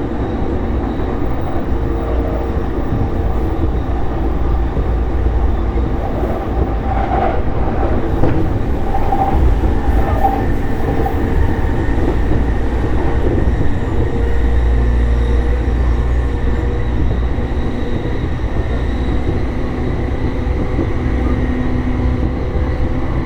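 Running noise of a JR E233 series electric commuter train heard from inside the car: a steady rumble of wheels on rail with faint steady tones over it.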